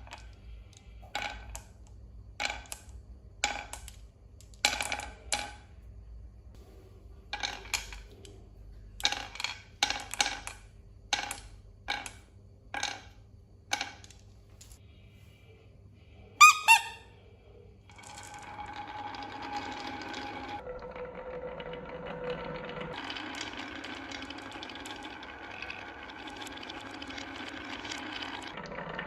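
A string of separate sharp clicks and knocks, about one every second, then one louder clattering knock. After that a steady motor hum starts up, like a small engine running, its pitch shifting a couple of times.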